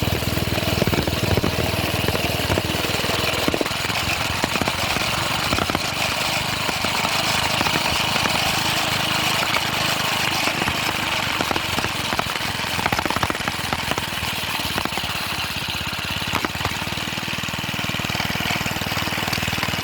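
Small engine of a minibike running steadily, its rapid firing pulses making a fast, even chugging beat.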